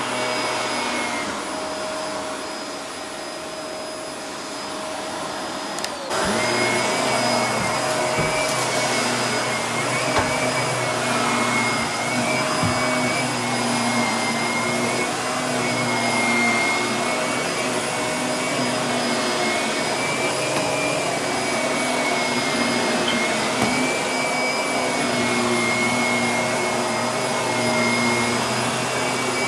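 Vacuum cleaner running steadily, a motor whine over a rushing airflow. About six seconds in, the sound abruptly gets louder and stays that way.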